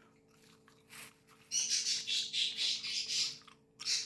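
Pet parrot squawking: a run of harsh, rough calls starting about one and a half seconds in and lasting about two seconds, then another short squawk near the end.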